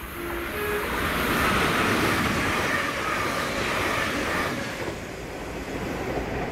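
ScotRail Class 380 electric multiple unit passing at speed: a rising rush of wheels on rail and air that is loudest about two to four and a half seconds in, then fades as the train draws away.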